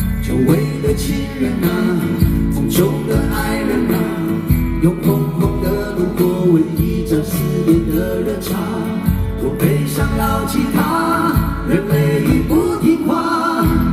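Live band playing a pop-rock song with guitar over a steady low drum beat; a singing voice comes in during the second half.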